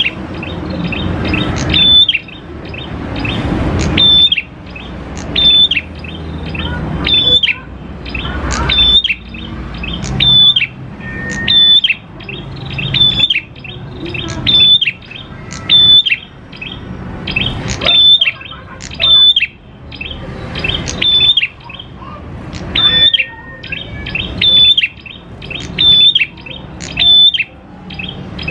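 Prenjak klawu (a prinia) calling on a lure recording: sharp high chirps repeated about every one and a half to two seconds, with a rough, rising rasp between the bursts.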